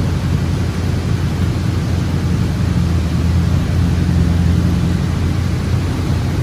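A steady, low rumbling noise that does not change, with no distinct knocks or clinks.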